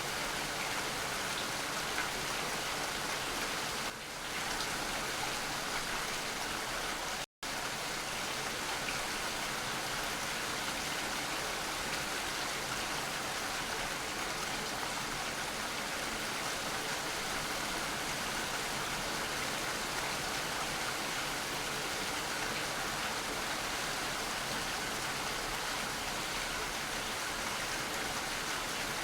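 Steady rain falling, an even hiss of many drops. The sound cuts out completely for an instant about seven seconds in, then carries on unchanged.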